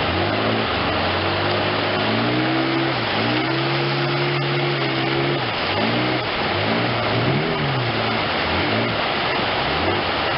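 An engine running under a steady rush of noise, its pitch rising and falling several times as the throttle changes.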